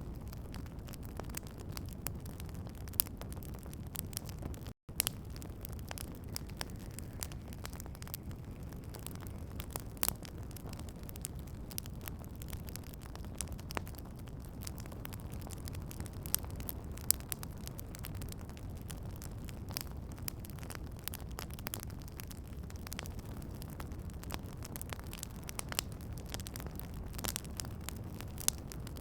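Outdoor campfire crackling: a steady low rumble of burning wood with frequent sharp snaps and pops, a handful of them louder. The sound drops out for an instant about five seconds in.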